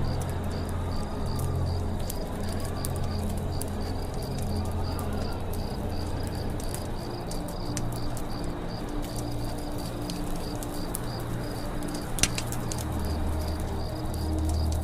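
Campfire crackling with scattered small pops and one sharper pop about twelve seconds in. Under it run steady insect chirping at about three pulses a second, a few faint bird calls, and a low steady drone.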